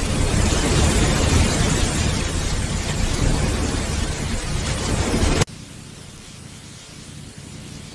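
Heavy rain with a deep rumble of thunder underneath. About five and a half seconds in it cuts off abruptly to a quieter, lighter rain hiss, as at a splice in a looped recording.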